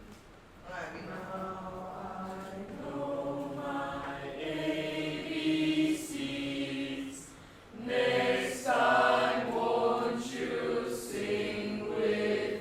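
A group of voices chanting together on held notes, like a small choir, breaking off briefly near the start and again about eight seconds in.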